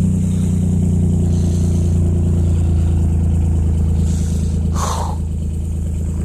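Dodge Caravan's Mitsubishi 3.0 V6 idling steadily just after a cold start in sub-zero weather, with a light tick that is common on those Mitsubishi engines. A brief rustling noise about five seconds in.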